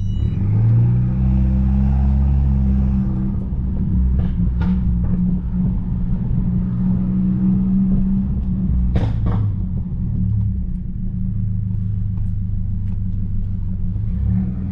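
Mercedes-Benz C250 driving, heard from inside the car: a steady low engine and road drone whose pitch shifts a couple of times as the car changes speed, with two brief knocks.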